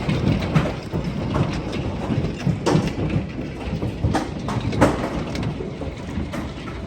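Hail and heavy rain: a steady hiss of rain with hailstones striking hard surfaces as irregular sharp knocks, a few of them much louder than the rest.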